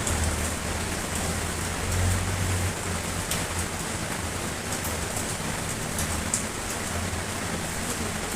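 Steady rain, with scattered sharp drop ticks over an even hiss. A low rumble sits under it at first and fades out about three seconds in.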